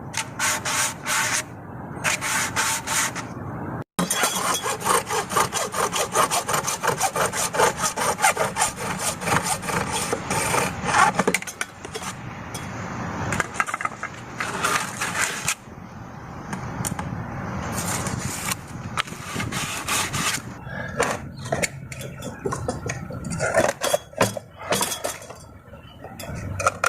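Rapid back-and-forth abrasive strokes by hand on the pool pump's plumbing pipe, working the pipe end, in runs broken by short pauses.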